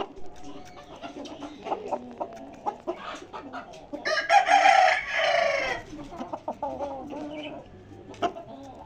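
Birds calling with scattered short calls, and one loud harsh call lasting under two seconds, about four seconds in, that drops in pitch at its end.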